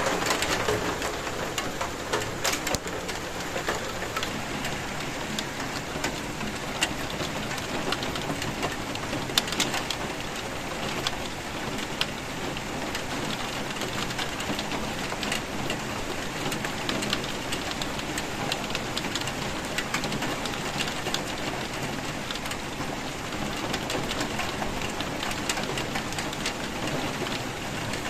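Steady rain falling, an even hiss dotted with many sharp individual drop hits on a surface.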